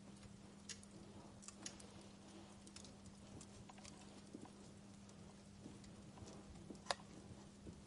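Wood fire crackling softly: sparse, irregular sharp pops and snaps, one louder pop near the end, over a faint steady low hum.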